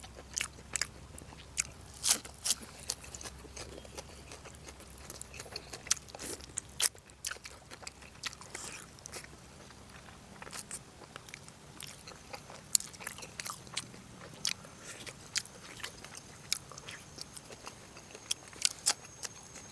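Close-up chewing and biting of braised pork, with wet mouth clicks and smacks at irregular intervals. A faint, steady, high-pitched insect call comes in over the second half.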